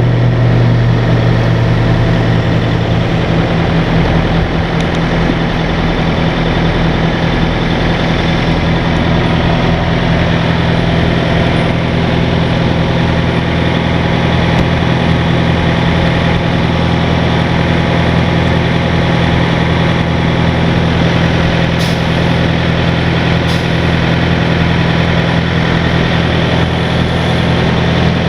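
Heavy truck's diesel engine running steadily at a low, even speed, a constant deep hum.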